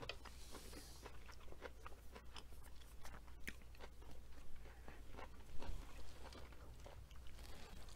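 A person chewing a mouthful of sautéed spinach close to the microphone: soft, irregular wet clicks and smacks.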